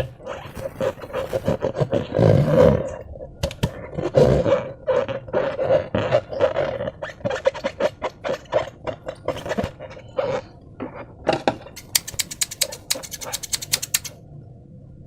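Slime being squeezed and worked by hand, with a continuous run of rapid wet squelches and crackling pops and a few heavier squelches early on. Near the end it breaks into a fast rattle of sharp crackles.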